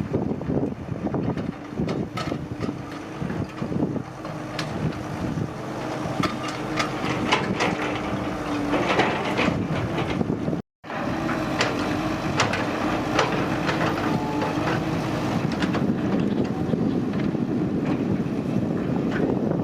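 Hydraulic excavator's diesel engine running steadily under working load, with scattered clanks and knocks. The sound drops out for a moment about halfway through.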